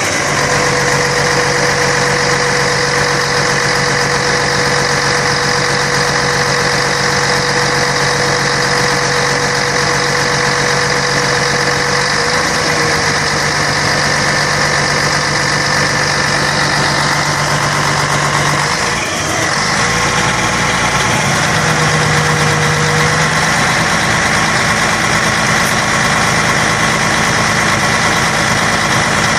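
Scania K113 bus's straight-six diesel engine running steadily, its pitch stepping a little about twelve seconds in and again after a short break in the sound about two-thirds of the way through.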